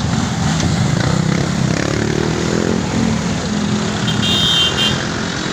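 Road traffic: vehicle engines running, with one rising in pitch as it speeds up about two seconds in. A brief high-pitched tone sounds about four seconds in.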